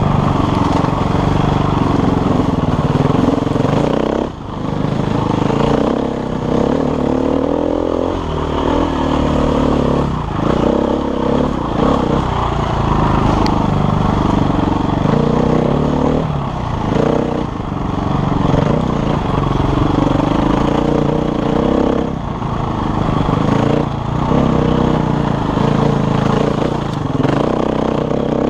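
KTM enduro motorcycle engine running on a rough trail, its revs rising and falling with the throttle, with short throttle-offs such as one about four seconds in.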